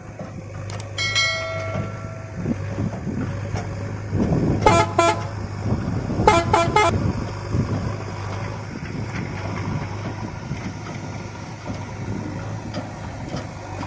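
Vehicle horn tooting: two short toots about four and a half seconds in and three more about two seconds later, over a steady low vehicle hum.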